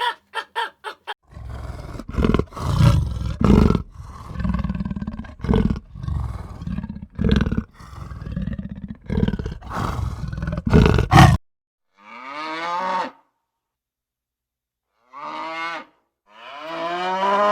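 A big cat growling and roaring in a run of loud, rough bursts for about ten seconds. It stops suddenly, and three short calls follow, each falling in pitch.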